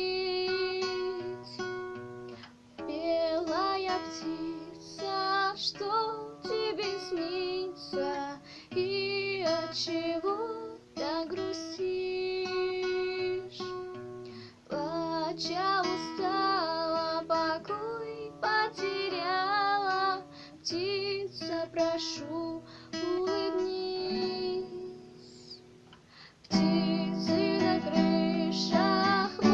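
A female voice singing a melody over plucked guitar accompaniment; the music drops quieter for a couple of seconds near the end, then comes back louder.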